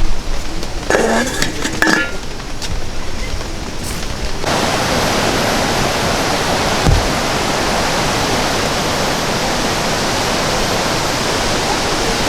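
A steady, dense rush of water noise, as of heavy rain or fast water, cutting in abruptly about four and a half seconds in. Before that there is a quieter hiss with a brief faint voice-like sound about a second in.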